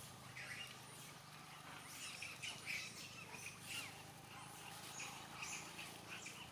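Short, high animal chirps and calls, thickest from about two to four seconds in, over a faint low steady hum.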